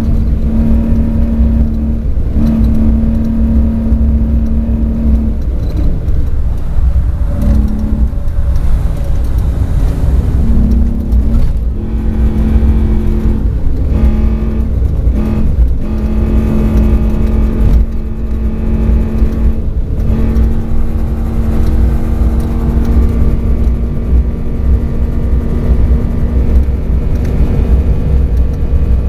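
Ford Raptor race truck's engine running at speed under a heavy, steady rumble of tyres and wind. The engine note holds steady, then dips and rises in pitch several times in the middle stretch.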